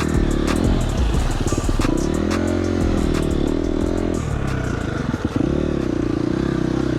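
KTM dirt bike engine revving up and down as it rides the trail, with sharp clattering knocks from the bike over rough ground during the first two seconds.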